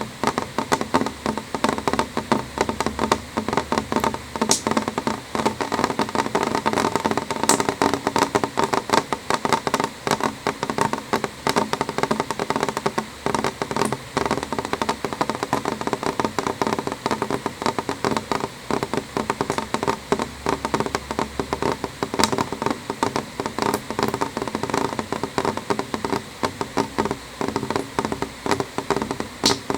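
Rain hitting a window pane: a dense, steady stream of small drop ticks on the glass, with a few sharper single taps standing out now and then.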